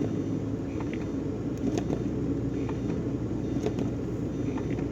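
Truck engine running steadily, a low even drone.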